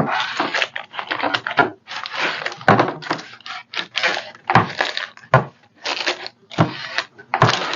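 A run of irregular rustles and knocks from things being handled, about one or two a second, each starting suddenly.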